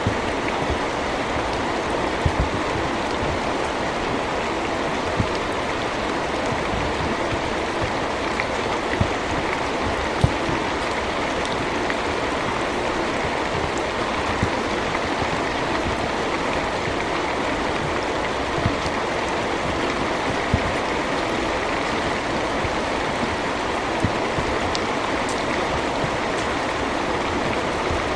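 Steady rainfall, an even hiss with occasional heavier drops landing close by.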